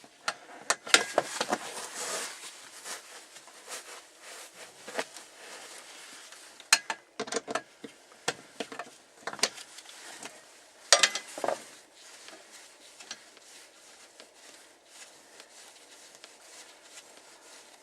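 Scattered metal clicks and clinks of a hand tool and small screws as Torx screws are undone from a fuel-pump access cover, in clusters, with fewer after about twelve seconds.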